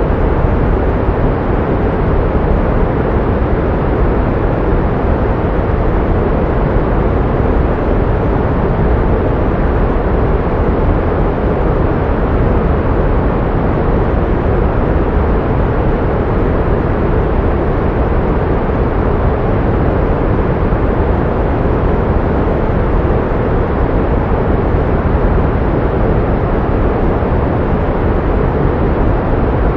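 Continuous pink noise: an even, unchanging hiss, strongest in the low end and thinning out toward the highs.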